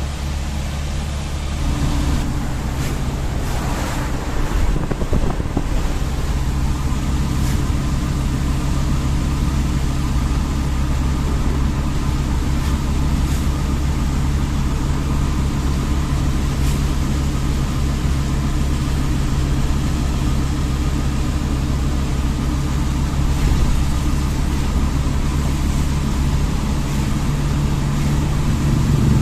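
A vehicle's engine running steadily while driving, with road noise. The engine hum steps up a little about two seconds in.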